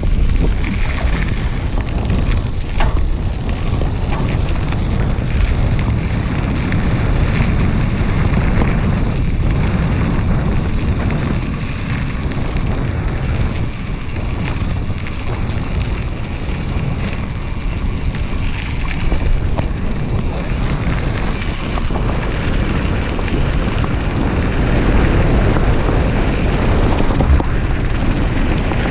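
Wind buffeting the microphone on a moving mountain bike: a loud, steady low rumble, with faint ticks and rattles from the bike and trail underneath.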